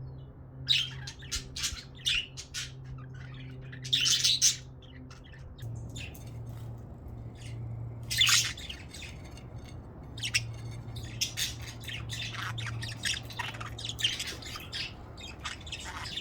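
Budgerigars chirping and squawking in quick, irregular bursts, the loudest about four and eight seconds in. Under them runs a steady low hum that steps down slightly in pitch about halfway through.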